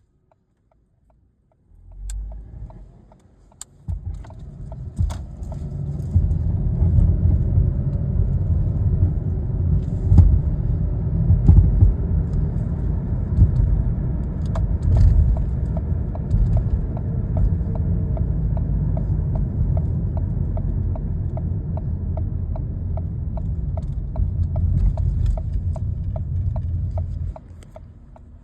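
A 2014 Ford Escape gives a low rumble with a regular ticking over it, a few ticks a second. These are the weird noises the owner is recording. The rumble comes in about two seconds in, swells, holds steady and drops away near the end.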